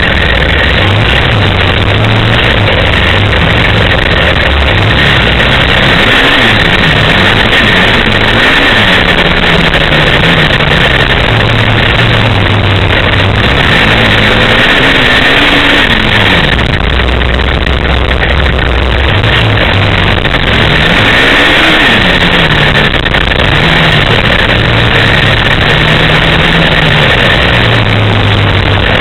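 Off-road motorcycle and ATV engines running, revving up and easing off again several times.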